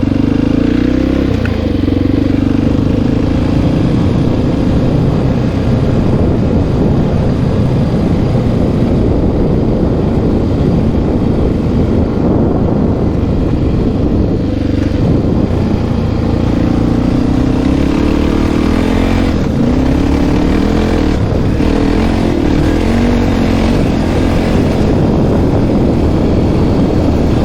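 Honda XR650R single-cylinder four-stroke motorcycle engine running under way, its pitch rising and falling with the throttle.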